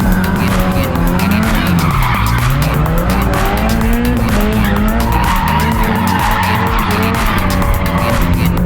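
A car doing donuts: its engine revs up and down under load while the rear tires spin and skid on the pavement.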